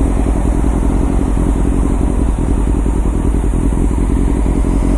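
Motorcycle engine running at a steady speed while being ridden, a constant low drone with no revving.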